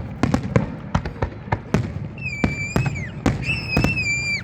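Fireworks going off in quick succession: a dense run of sharp bangs and cracks. From about halfway in come high whistling tones, each held steady for half a second or so before falling away.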